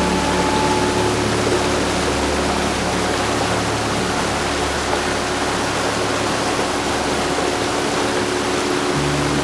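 Heavy rain falling in a steady, even hiss, with a faint low steady hum underneath.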